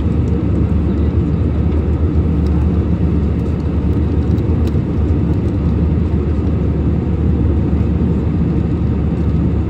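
Steady drone of engine and airflow noise heard inside an airliner cabin, even and unbroken, with most of the sound low in pitch.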